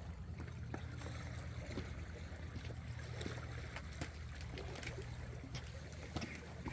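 A boat's engine runs steadily as a low drone, with small scattered clicks and light water sounds over it.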